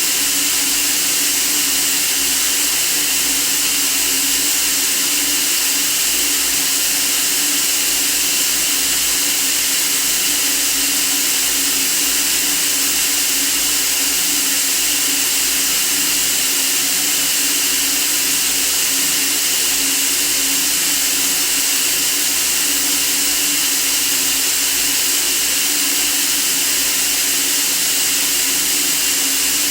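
Steady white noise for sleeping: an even, unchanging hiss, strongest in the high range, with a faint low tone underneath.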